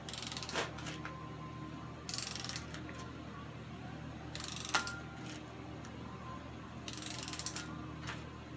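Ratchet of a torque wrench clicking in four short spells as it turns down lower intake manifold bolts.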